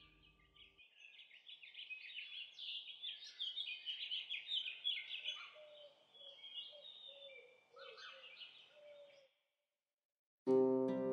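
Birds chirping and twittering in a fast, busy series, with a lower, slower repeated call underneath in the second half. It cuts off a little after nine seconds, and after a moment of silence music with plucked, harp-like notes starts near the end.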